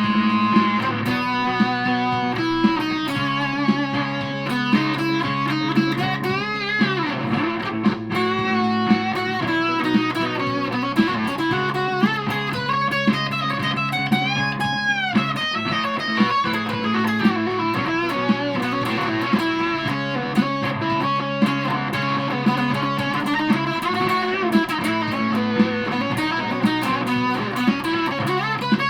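Aria Pro II Thor Sound electric guitar played through a Joyous Dream super fuzz pedal: a lead line with string bends over sustained low notes and a regular beat.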